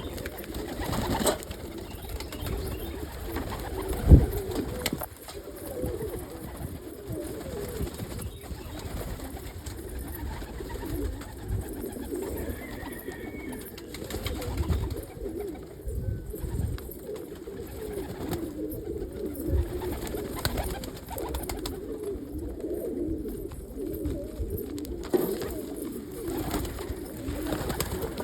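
Domestic homing pigeons cooing on and on, a continuous low warbling chorus. A sharp knock stands out about four seconds in.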